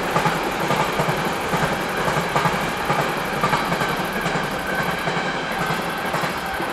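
Container freight train rolling past: a steady rumble of wagon wheels on the rails with regularly repeating clacks, easing slightly near the end.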